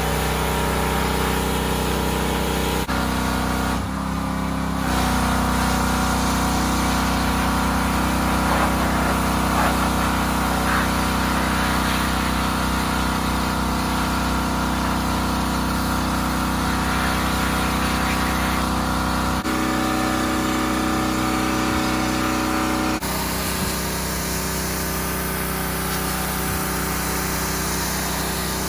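Pressure washer running steadily, its engine and pump droning with the hiss of the water jet. The sound changes abruptly several times, about 3, 5, 19 and 23 seconds in.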